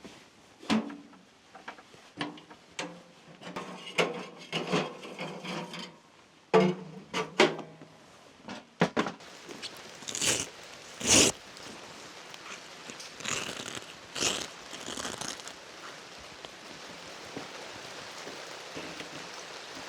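Knocks and clatters of things being handled and set down, with a few short hissing bursts in the middle; then a steady hiss of rain builds near the end.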